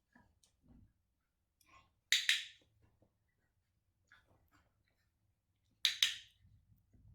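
Dog-training clicker clicked twice, about two seconds in and again about six seconds in, each a quick double click-clack, marking food rewards while puppies are conditioned to the clicker. Faint soft low noises between the clicks.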